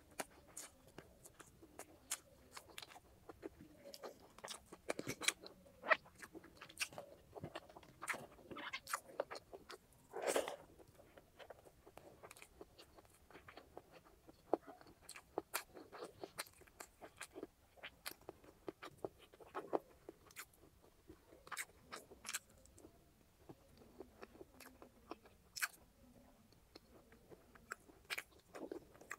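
Close-miked chewing of grilled chicken and rice: irregular crisp crunches and wet mouth clicks, with one louder crunch about ten seconds in.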